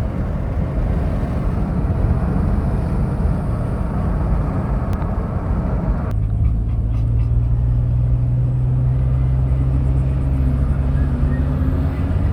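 Car driving on the road: steady road and engine noise. About halfway through, the hiss drops away and a steady low hum carries on.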